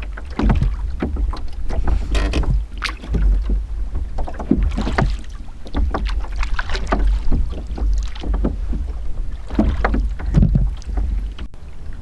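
Small dinghy being paddled along: repeated, irregular splashes and knocks of the strokes in the water, over a low rumble of wind on the microphone.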